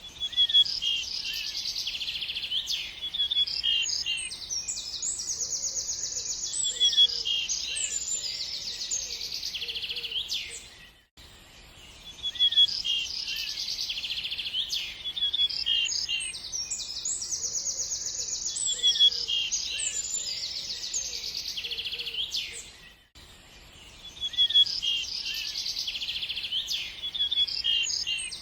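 Songbirds singing, with chirps and fast trills. The same stretch of song repeats in a loop about every twelve seconds, each time after a brief break.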